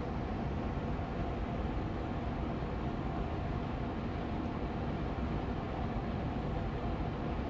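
Austin Air Allergy Machine air purifier fan running steadily on medium speed: an even rushing hum of moving air, weighted toward the low and middle range, with a faint steady tone in it.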